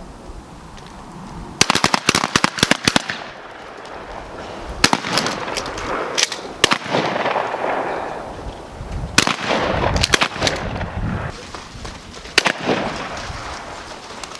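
Gunshots: a quick string of several shots about two seconds in, then single shots a second or a few apart until near the end, each trailing off in a short echo.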